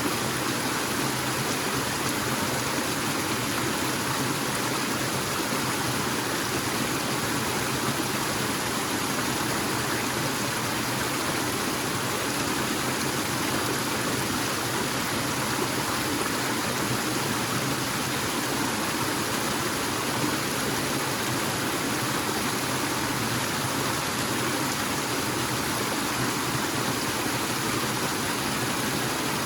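Forest waterfall: falling water making a steady, even rush.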